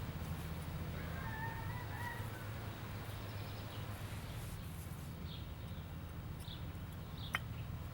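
Woodland ambience: a steady low rumble with faint bird calls. A drawn-out call comes about a second in, and a few short chirps follow later. A single sharp click sounds near the end.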